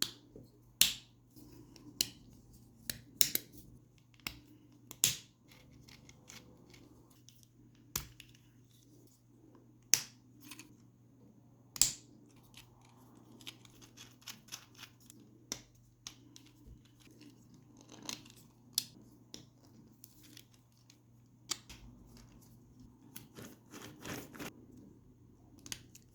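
Sharp, irregular clicks and snaps of 3D-printed plastic kit parts being broken out of the card and pressed together, over a faint steady low hum.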